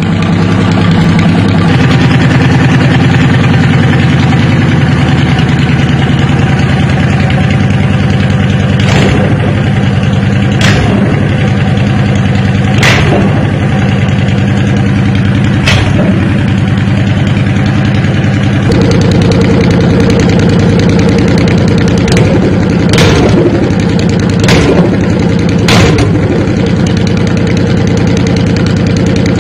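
Honda Shadow Phantom V-twin running through Vance & Hines Shortshots short straight pipes, revved in brief blips. About eight sharp exhaust pops come in the middle and later part: the backfires that throw exhaust flames.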